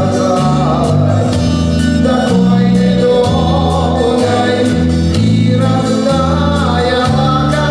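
A Soviet-style vocal-instrumental ensemble playing a love song live: a bass line moving note to note under electric instruments and singing voices.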